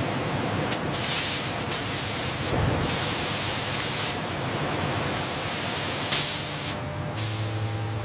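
Hissing spray that starts and stops in several bursts, with short gaps between them, and a sharp click about six seconds in.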